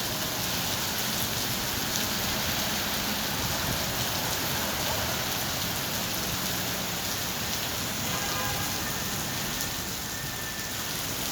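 Rain falling steadily on the street, a dense, even hiss.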